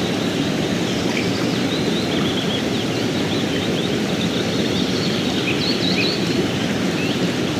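River water flowing steadily, with small birds chirping above it in quick runs of short calls.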